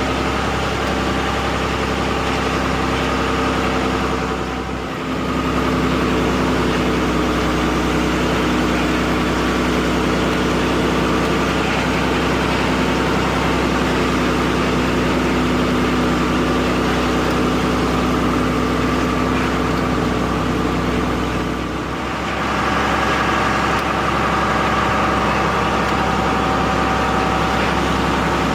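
Truck engine running steadily, heard from inside the cab, with two short dips in loudness, about five seconds in and again about twenty-two seconds in.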